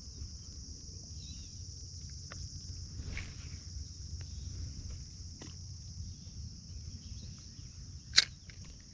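Steady high-pitched chorus of insects over a low rumble, with one sharp click about eight seconds in.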